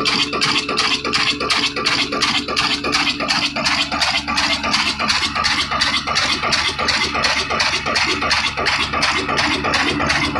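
Ittefaq 18 hp 'kala desi' single-cylinder diesel engine running steadily at a slow speed, with an even metallic knocking about four to five beats a second.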